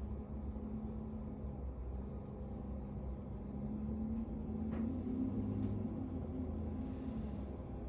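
A low, steady rumble with a faint hum.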